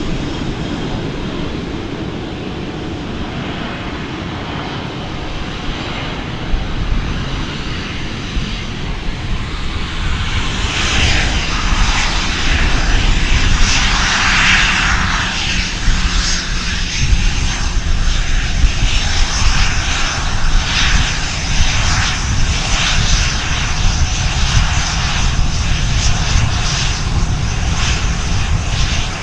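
Airplane engines running as an aircraft passes close by, the noise swelling sharply about ten seconds in, loudest a few seconds later, and staying loud afterwards.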